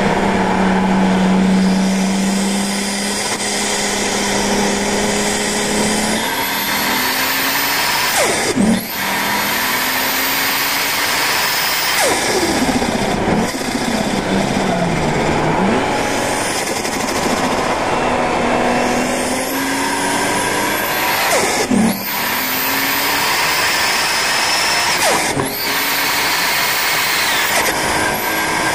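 Nissan R32 Skyline's turbocharged RB25DET Neo straight-six with a TD05H-18G turbo, driven hard on track: the revs climb repeatedly and drop sharply at gear changes about 9, 22 and 25 seconds in, with a slower fall in revs between about 12 and 15 seconds.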